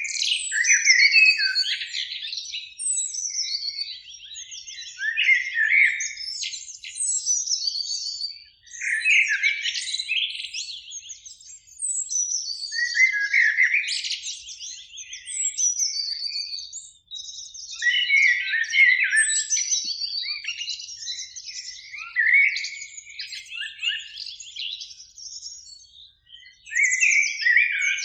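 Eurasian blackbirds singing: one fluty phrase after another, each ending in higher twittering notes, with brief pauses between phrases.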